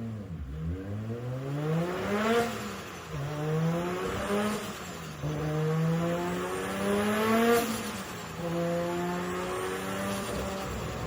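Nissan Skyline R32 GT-R's RB26DETT twin-turbo straight-six engine revving up and dropping back four times, then settling to a steady note near the end.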